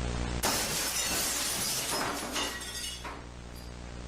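Window glass shattering: a sudden crash about half a second in, then shards tinkling and falling for a couple of seconds before fading.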